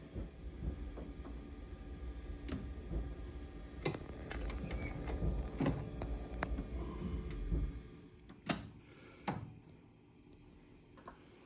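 Steel tooling and a workpiece being fitted on a metal lathe: scattered sharp metal knocks and clinks, over a low rumble that stops about eight seconds in.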